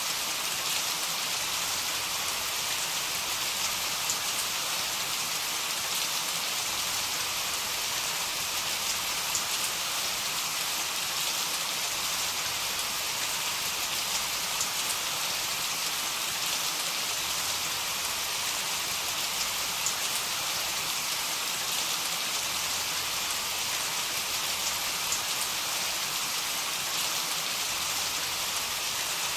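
Heavy rain falling steadily: a dense, even hiss of rain on surfaces, with occasional sharper drop ticks.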